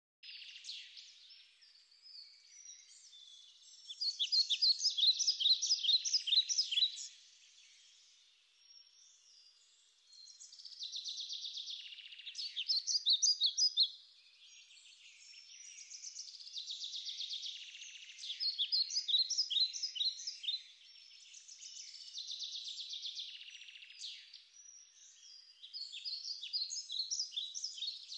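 Birds singing: repeated phrases of rapid, high chirping notes, each a few seconds long, with softer calls in between; the loudest phrase comes about four seconds in.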